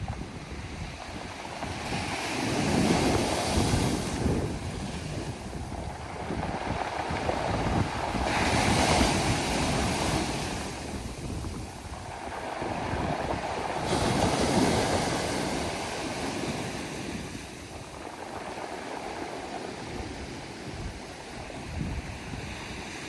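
Sea waves breaking on a pebble beach and washing back over the stones. Each surge swells to a hiss and ebbs away, about every five to six seconds.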